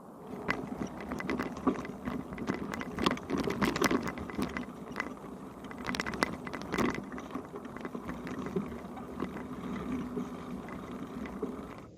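Touring bicycle rattling and clicking as it is ridden, with many irregular sharp knocks over a steady running noise.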